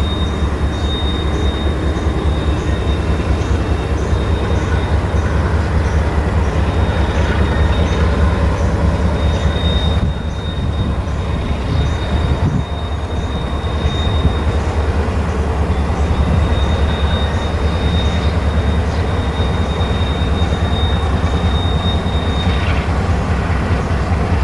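Norfolk Southern freight train passing: the diesel locomotives' heavy, steady low rumble, then freight cars rolling by. A thin, steady high-pitched squeal comes and goes over the rumble and stops shortly before the end.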